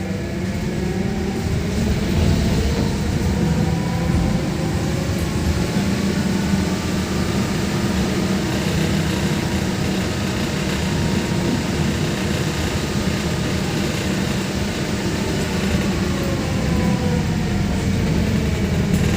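VMZ 5298.01 Avangard trolleybus under way: the electric traction drive whines in several tones that rise in pitch as it gathers speed, hold, then fall as it slows, over a steady low rumble of the running gear.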